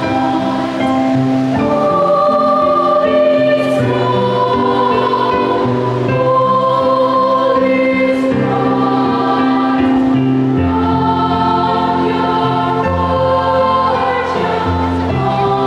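Children's choir singing a Christmas carol in long, held chords, with low sustained notes underneath.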